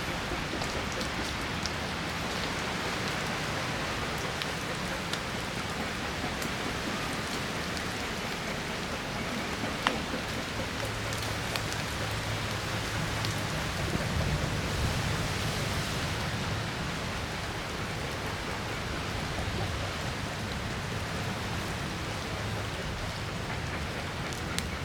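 Heavy rain falling steadily, with many small drop ticks over a low rumble, and one sharp tap about ten seconds in.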